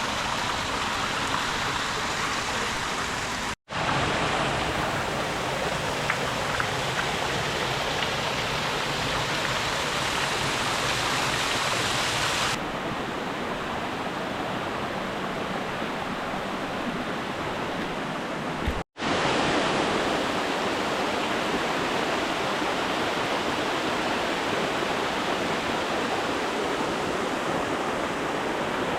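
Steady rush of flowing water, broken twice by an instant of silence where the footage cuts; about a third of the way in it turns duller, with less hiss.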